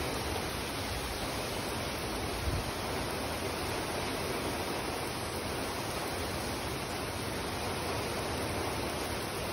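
Heavy rain pouring steadily onto pavement and parked cars, a dense even hiss, with a brief low thump about two and a half seconds in.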